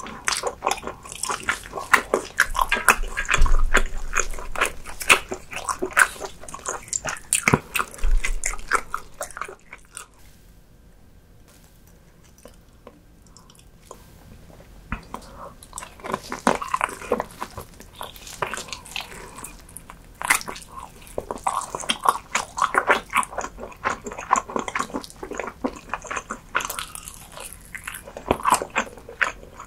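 Close-miked eating sounds: biting and chewing with many quick mouth clicks and smacks, pausing for a few seconds in the middle.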